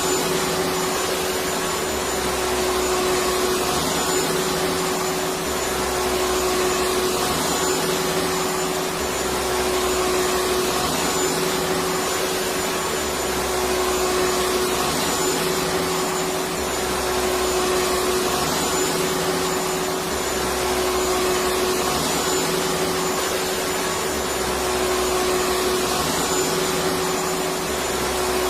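Electric vacuum cleaner running steadily: an even rush of air with a constant motor hum.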